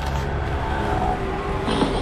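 Steady low rumble of road traffic. Electronic dance music with a beat comes in near the end.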